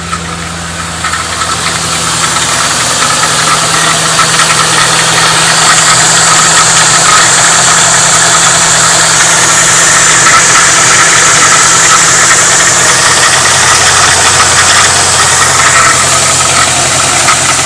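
1997 Ford Mustang GT's 4.6-litre V8 running with a rattle on the passenger side of the engine, growing louder over the first few seconds and then holding steady. The rattle comes from a crankshaft timing trigger wheel damaged around its keyway, not from the timing chains or tensioners.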